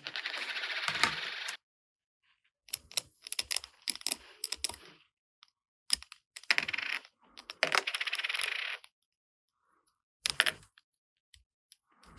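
Small plastic toy parts being handled. There are sharp clicks and taps, and several longer crackly rustling passes of about a second each.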